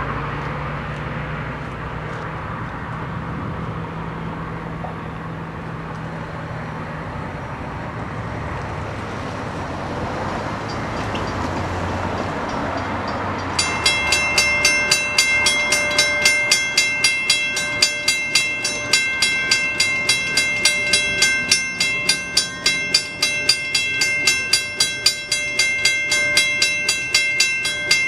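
A Long Island Rail Road passenger train arrives and passes. A low engine drone comes first. About thirteen seconds in, the sound switches to a rapid regular clicking of wheels over the rail joints, about three clicks a second, with steady high ringing tones underneath.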